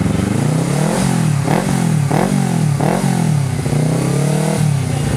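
Honda CBR250RR parallel-twin engine blipped four times in quick succession, then revved once for longer before falling back to idle.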